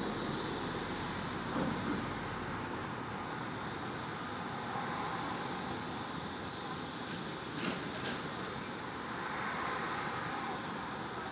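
Steady background hum of road traffic, with two short faint clicks about two-thirds of the way in.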